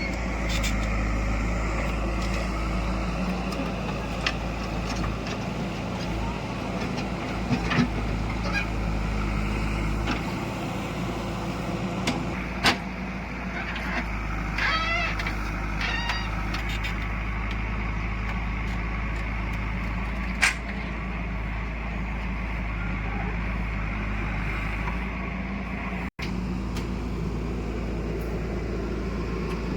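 Heavy diesel vehicle engine running steadily, with a few sharp ticks and a brief dropout in the sound about 26 seconds in.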